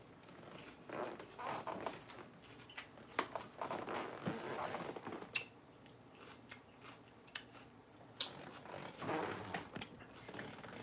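A person chewing crisp salad lettuce close to the microphone, crunching in irregular bursts with a quieter pause midway.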